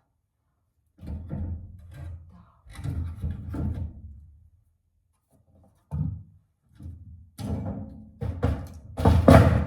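Firewood logs being picked up and handled, clunking and knocking against each other in a few irregular thuds, with a louder clatter near the end.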